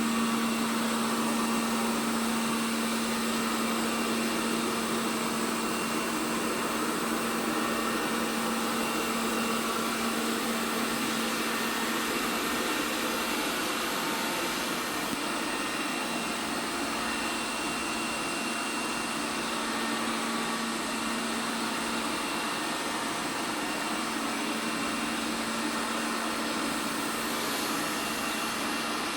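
ELARI SmartBot Lite SBT-002A robot vacuum cleaner running: a steady whirr of its suction motor and brushes over a low, even hum.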